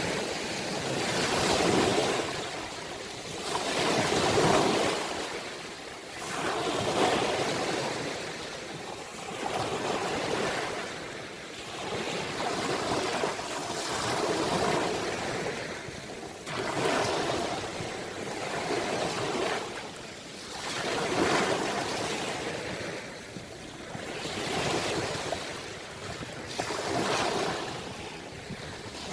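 Sea waves washing onto the shore, each one swelling and falling back every two to three seconds in a continuous wash.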